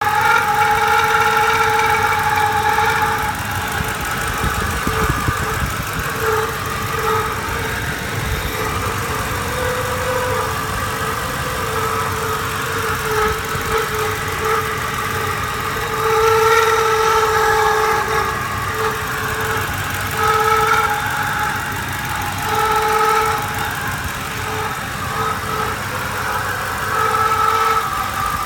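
2007 Ford Sport Trac's 4.6-litre V8 running, with an odd, steady-pitched whine over the engine that holds for a few seconds and then keeps cutting in and out. The owner cannot say what is causing it.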